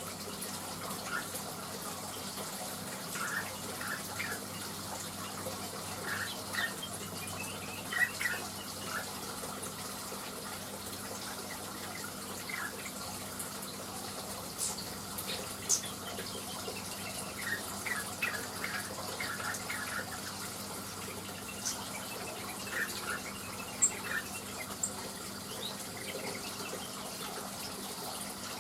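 Blue-winged leafbird (cucak wilis) calling in short, scattered chirps, with a few higher sharp notes, over a steady rushing hiss like running water.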